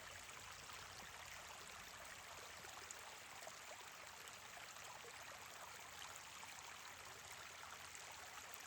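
Faint, steady rushing background noise with no distinct events.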